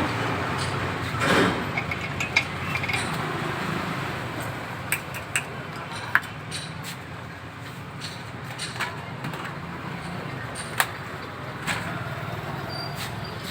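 Short sharp clicks and taps of tools on a pressure cooker as its side handle is fastened, a handful spread over the stretch, over steady street traffic noise.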